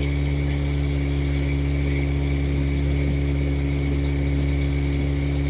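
Motorboat engine running steadily at a constant speed, a low even drone with a faint steady whine above it.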